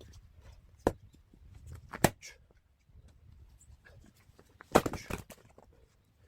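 Firewood being split and handled: two sharp wooden knocks about a second apart, then a short clatter of knocks nearly five seconds in.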